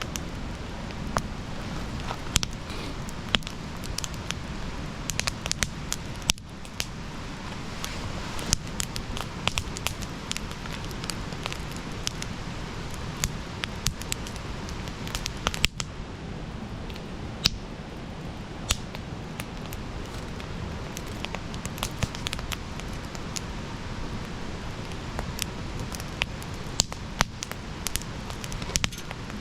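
Bonfire burning with irregular sharp crackles and pops over a steady low rush of flame.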